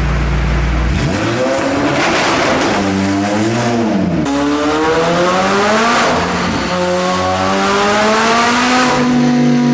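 A performance car's engine being revved and driven hard: its pitch climbs and drops several times, then settles to a steady note near the end.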